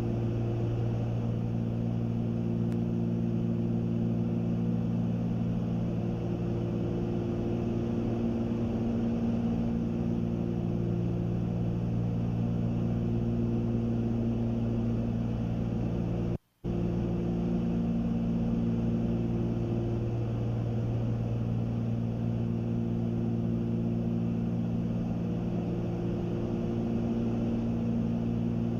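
Cessna 310Q's two piston engines and propellers in steady flight, heard inside the cabin as a constant drone with a low hum that slowly swells and fades. The sound drops out for a split second about sixteen seconds in.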